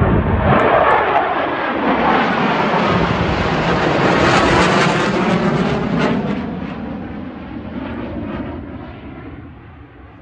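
Jet engine roar of Sukhoi fighter jets passing by: it builds to its loudest about four to five seconds in, then fades away steadily.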